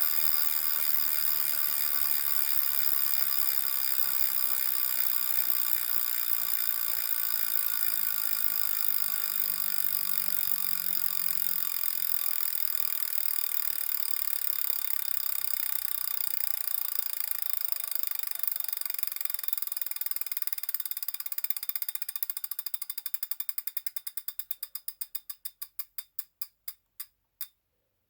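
Wahoo KICKR Core trainer's flywheel coasting down with a whirring hum and a periodic rubbing tick once per turn. The ticks slow and spread out as it winds down, ending shortly before the end. The owner takes the rubbing, which keeps time with the rotation, for an abnormal noise not heard on other units.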